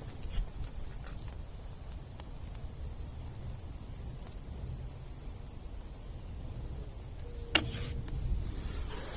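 Insects chirping in short, evenly pulsed high trills that recur every second or so over a low outdoor rumble, with one sharp click about three-quarters of the way through.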